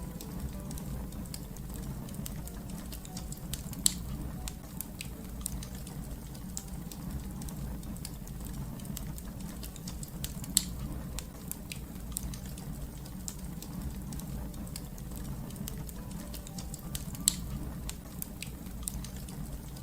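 Wood fire crackling: a steady low rumble of burning with constant small crackles, and three loud sharp pops several seconds apart.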